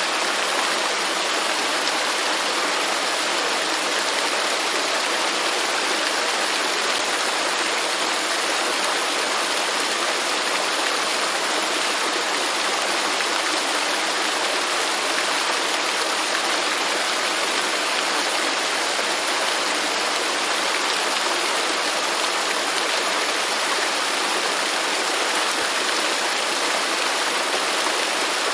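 A waterfall's water falling and splashing in a steady, even rush, with no breaks or changes.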